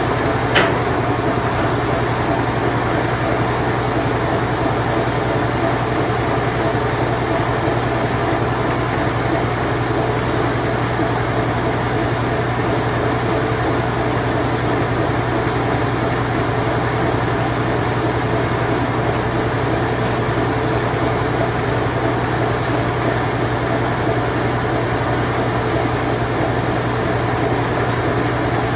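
Whirlpool Imperial Clean Touch washing machine (circa 1988–1991) running its spin cycle: a steady, even hum and whir with a low drone, and one brief sharp click about half a second in.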